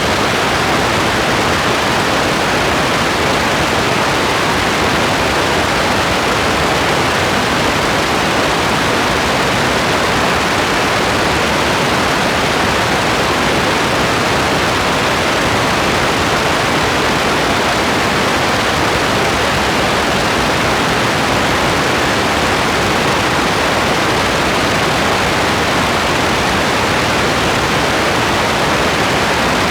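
Steady rain as a constant, even hiss, with no separate drops, drips or thunder standing out.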